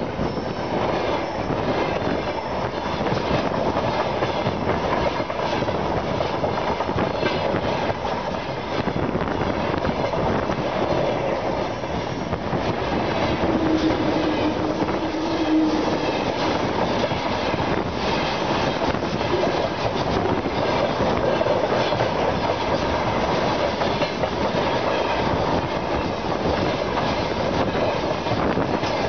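Freight train wagons rolling directly over a microphone lying between the rails: a loud, continuous rumble and clatter of steel wheels on the rails, with a brief tone standing out about halfway through.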